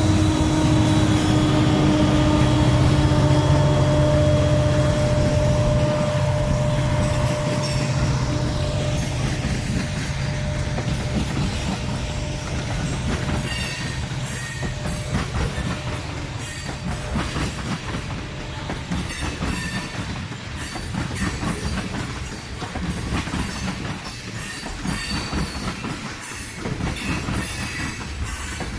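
A train passing: a diesel locomotive's low engine rumble, with a few steady tones over it, fades away over the first several seconds. The cars then roll by with a steady run of wheel clicks over the rail joints and a few brief high wheel squeals.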